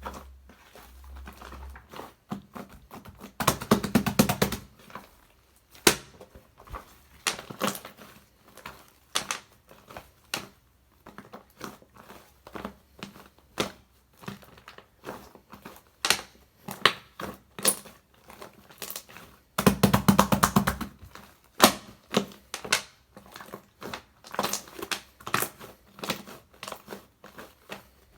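Shaving-foam slime being squished and poked by hand: a run of sticky clicks and small air pops, with two denser crackling stretches, about four seconds in and again about twenty seconds in.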